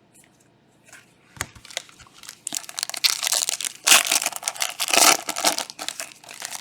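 Foil trading-card pack wrapper crinkling and being crumpled in the hands, with a few sharp clicks first and then a dense stretch of crackling from about two and a half seconds in.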